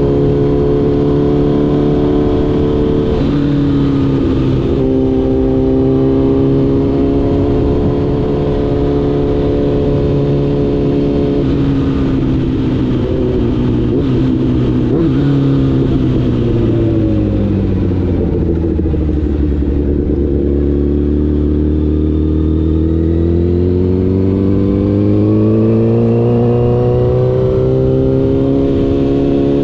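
Honda CBR1000RR's inline-four engine running on the road, steady for the first half. About halfway through the engine note falls as the bike slows, then rises again under acceleration and levels off near the end.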